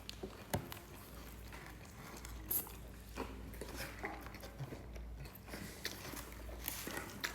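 A person biting and chewing a slice of vegetable pizza: soft crunches and mouth clicks at irregular moments, over a low steady hum.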